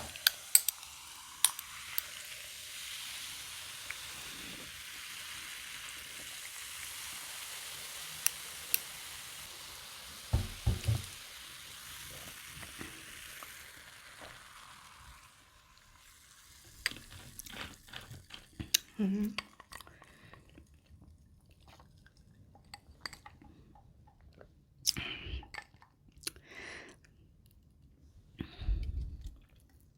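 A person eating, with sharp clicks and soft chewing sounds. A steady hiss runs under them until it stops abruptly about halfway through.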